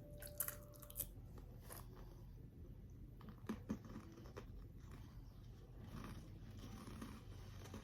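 Faint crunching and chewing of a freeze-dried Jolly Rancher candy, with a few short sharp crunches in the first four seconds and quieter chewing after.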